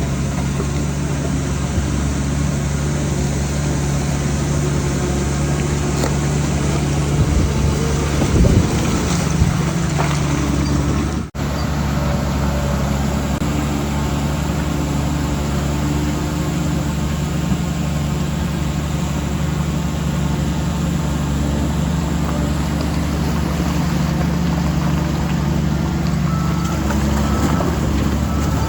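Diesel engine of a DH17C3PRO bulldozer running steadily, with a brief louder, unsteady stretch about eight seconds in and a momentary drop-out a few seconds later.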